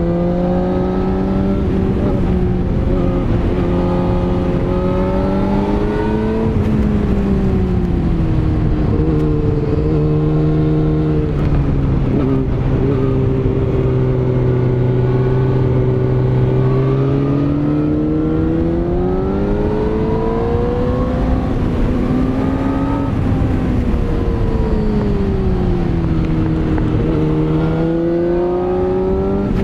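Yamaha R6 (RJ27) inline-four motorcycle engine pulling uphill, its revs rising and falling smoothly several times as the rider accelerates and eases off, with wind and road noise underneath.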